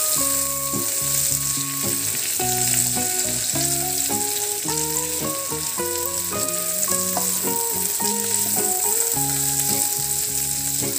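Ground spice paste sizzling in hot oil in a frying pan as it is stirred with a spatula. A light melody of background music plays alongside.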